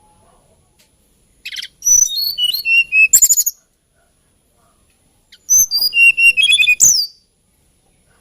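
Hill Blue Flycatcher singing: two phrases of quick, high notes, many sliding downward, separated by a pause of about two seconds.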